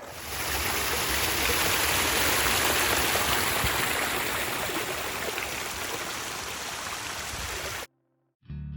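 Rushing water of a hill stream running steadily. It cuts off abruptly near the end, and guitar music starts just after.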